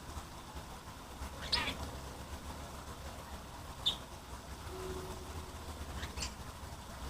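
Three short high-pitched calls from a small songbird, a euphonia (fim-fim or gaturamo-verdadeiro), each a couple of seconds apart, over a steady low rush of falling water.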